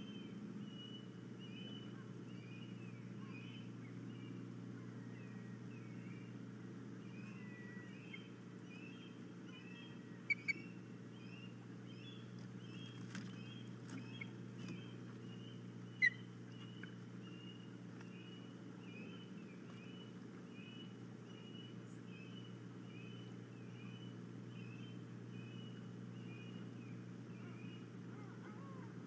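A bird calling a long, even series of short chirps, one after another, over a steady low hum. A few single notes stand out louder, and there is a sharp click about sixteen seconds in.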